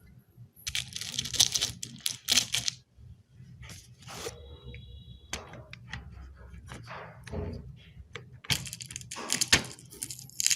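Parts of a toy helicopter model kit being handled and worked loose: two spells of rustling, tearing-like noise with sharp clicks, about a second in and again near the end, with scattered taps and clicks between.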